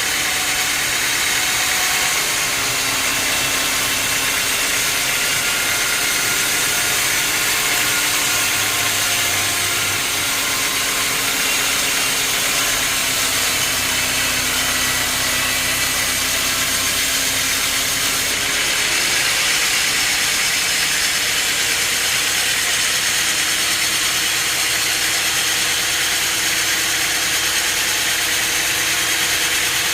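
Heavy machinery running steadily: an engine-like hum with a dense hiss over it.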